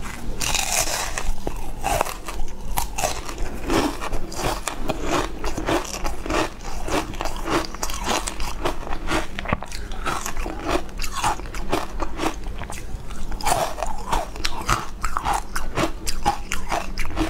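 Close-miked eating sounds: a person biting and chewing a green, powder-topped dessert, with many small irregular wet clicks and crunches throughout, and chopsticks working in the plastic tray.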